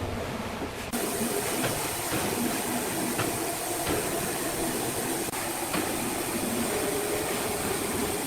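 Sawmill machinery running: a steady mechanical rumble and rattle with a few faint clicks, changing character about a second in.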